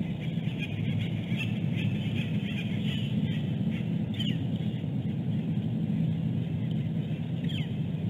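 High bird chirps, with two short calls falling in pitch about halfway through and near the end, over a steady low rumble.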